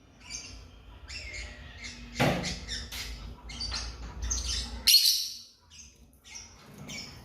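Lovebirds giving a rapid string of short, high chirps and squawks, the loudest about two and five seconds in.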